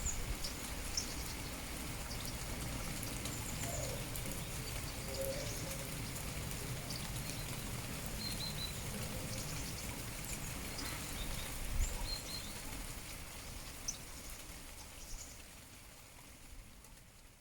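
Steady rain falling, with short high bird chirps scattered through it; the sound fades out toward the end.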